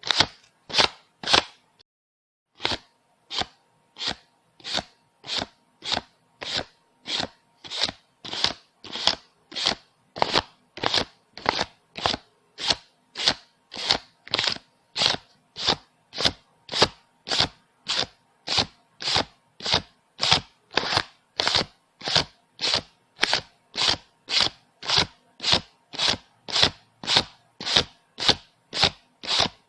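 Paper banknotes being counted, each bill flicked with a short crisp snap about twice a second, after a brief pause about two seconds in.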